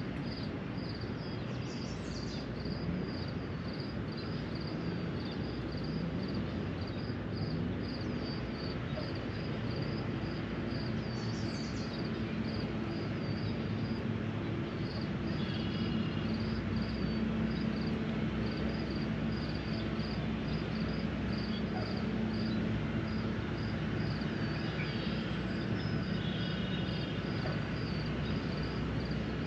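Steady rain shower on a lake shore, with a high chirp repeating about twice a second and a few short bird calls over it.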